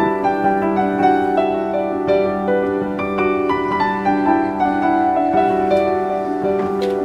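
Music played on piano or keyboard: a flowing run of notes that overlap and ring on, over a steady held low note.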